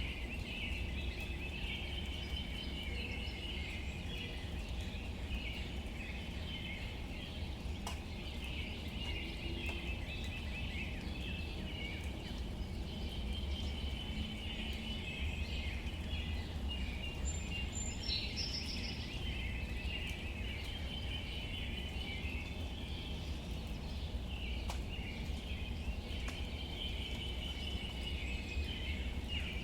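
Steady light rain falling on leaves, a soft even patter with scattered drip ticks, and a continuous chorus of birds chirping behind it.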